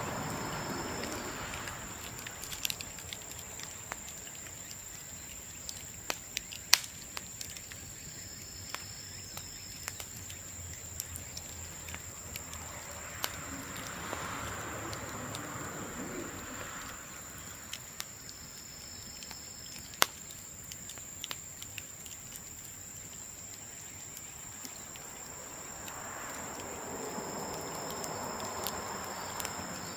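Bamboo bonfire crackling with scattered sharp pops, two of them louder, about seven seconds and twenty seconds in. A steady high insect trill runs underneath.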